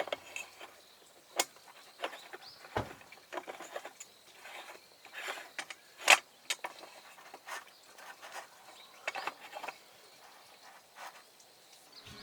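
Wood campfire crackling: irregular sharp snaps and pops at uneven spacing, a few of them louder, one of the loudest about six seconds in.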